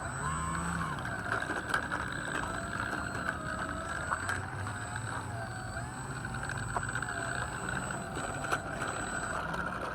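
Electric motor and propeller of an E-flite T-28 Trojan RC plane running on a 4S battery, its whine wavering up and down in pitch as the plane flies and the throttle changes.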